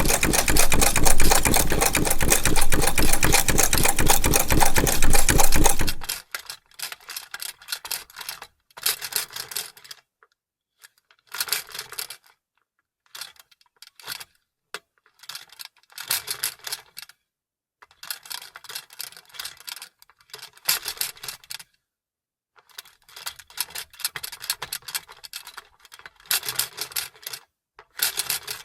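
Vintage sewing machine running fast and steady, a dense, even stitching rattle that stops abruptly about six seconds in. After that come short, quieter bursts of clicking and clatter with silent gaps between them.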